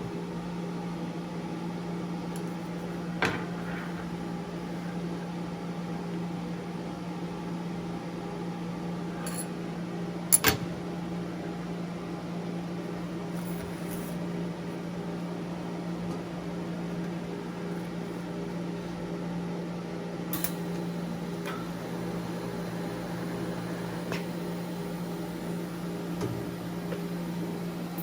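Steady electrical hum of shop equipment, with a few sharp metal knocks and clicks from steel parts being handled, the loudest about ten seconds in.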